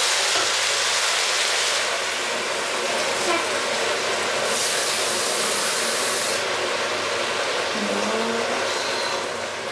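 Chicken and vegetables sizzling steadily in a stainless steel pot under a layer of dry noodles, with a louder stretch of hissing about halfway through. Near the end, water is poured in from a jug to cover the noodles.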